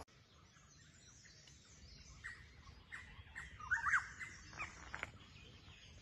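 Small wild birds chirping in woodland: faint, short high chirps scattered through, with a quick cluster of them near the middle.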